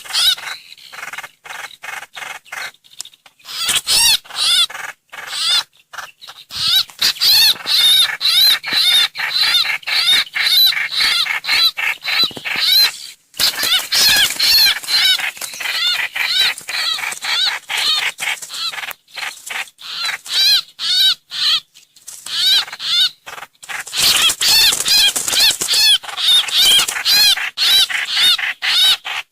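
Trao trảo (hoành hoạch) bird calls played as a trapping lure: fast chattering runs of repeated high notes, broken by brief pauses about halfway through and a little past two-thirds of the way.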